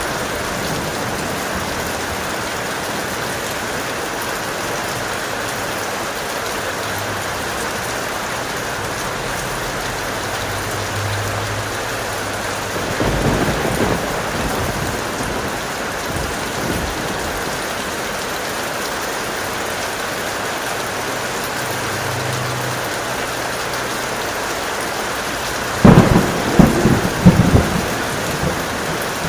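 Heavy rain falling steadily, with two peals of thunder: a crackling rumble about 13 seconds in and a louder, sharper set of cracks near the end.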